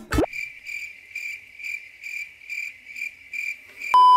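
Cricket chirping sound effect, a high chirp repeating about twice a second. Near the end it gives way to a loud, steady test-tone beep, the tone that goes with TV colour bars.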